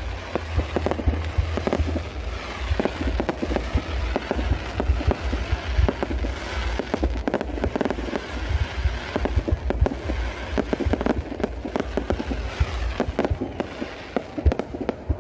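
Fireworks going off in a dense, rapid barrage of cracks and pops over a continuous low rumble.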